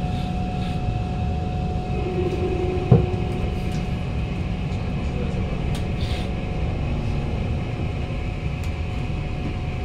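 Interior of a Kawasaki Heavy Industries C151 (PMSM) train car running into a station, with a steady rumble and a steady tone. A sharp knock comes about three seconds in.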